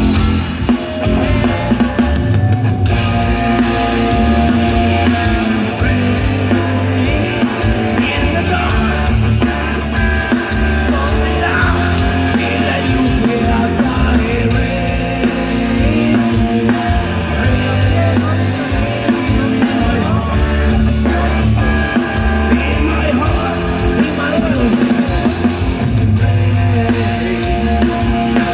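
Live rock band playing an instrumental passage, with drum kit, bass and electric guitar.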